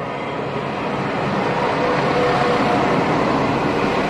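Class 172 Turbostar diesel multiple unit running along the track and passing close by, its underfloor diesel engines and wheels growing steadily louder as it nears, with a few steady higher tones coming in about halfway through.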